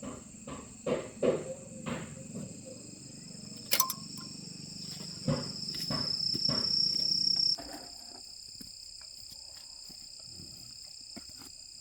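Several sharp knocks over a steady high chirring, then a high whine with a low hum that cuts off suddenly about seven and a half seconds in.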